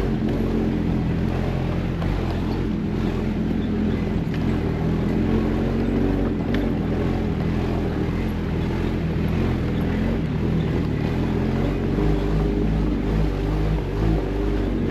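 Jeep engine running steadily under way, a continuous low drone with road and drivetrain rumble.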